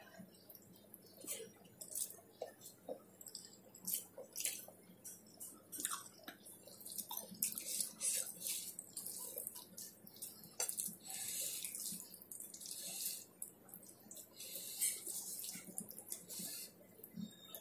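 Close-up wet chewing and lip-smacking while eating with the fingers: a quick, irregular run of short wet clicks and smacks.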